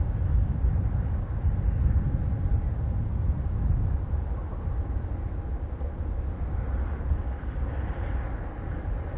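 Strong wind buffeting the microphone as a rough, steady low rumble, over the faint steady whine of distant jet aircraft engines, which swells briefly near the end.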